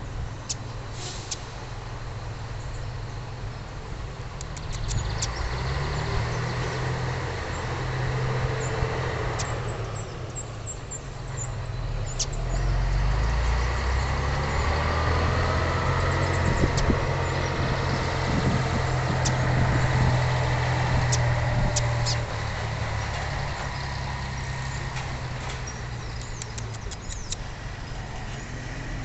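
A steady low, engine-like rumble, louder through the middle and dropping suddenly about two-thirds of the way in, with scattered short, high chirps or clicks over it.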